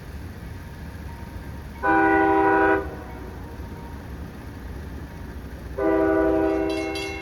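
CSX freight locomotive's multi-chime air horn: one blast of about a second, then a second, longer blast near the end, over a steady low rumble from the approaching train. Rapid, evenly spaced clicking starts just before the end.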